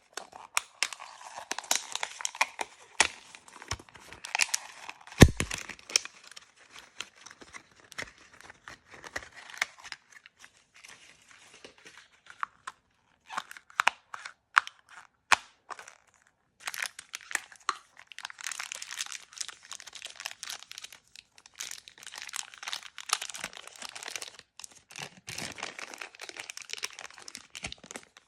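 Crinkly plastic packaging being handled and torn open by hand, with many small crackles and snaps. There is a single heavier thump about five seconds in and a brief pause a little past halfway.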